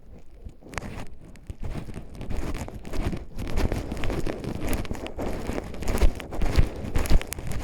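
Footsteps crunching and rustling through dry forest leaf litter and undergrowth, beginning about a second in.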